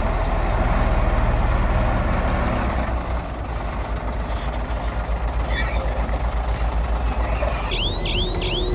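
Heavy diesel engine of construction machinery running with a steady, pulsing low rumble. Near the end, a repeated high, falling chirp starts up, about two to three a second.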